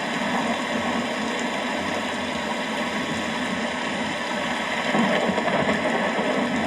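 Steady rain falling, an even hiss and patter that grows a little louder and deeper about five seconds in.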